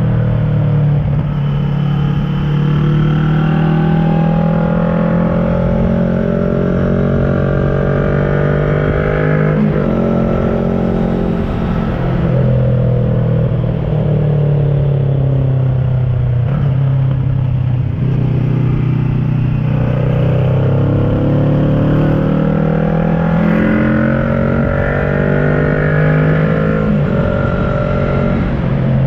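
Kawasaki ER-6n's parallel-twin engine through an SC Project carbon exhaust, pulling up through the revs and shifting gears several times. The pitch climbs and then drops at each shift, with steadier or easing-off stretches in between.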